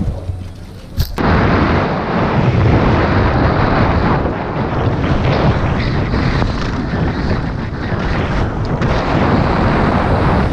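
Wind buffeting the microphone: a sharp knock about a second in, then a loud, steady, low rushing.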